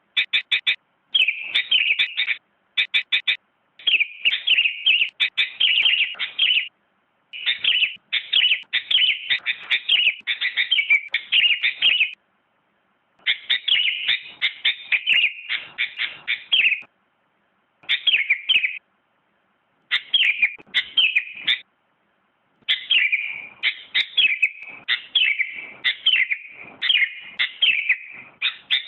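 Sooty-headed bulbul singing: loud runs of quick, rapidly repeated chirping notes, delivered in bursts of a few seconds with brief pauses between them.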